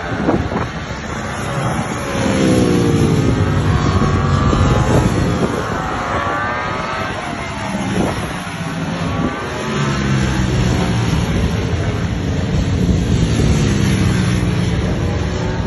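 Ducati Panigale V4 S V4 engine revving hard, its pitch climbing and falling several times as the bike accelerates and slows.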